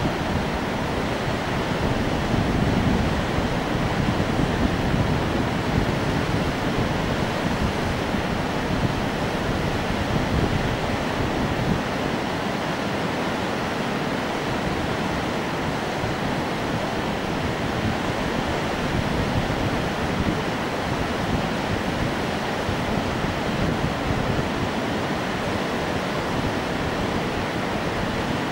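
Fast-flowing Indus River water rushing: a steady, unbroken rush of whitewater.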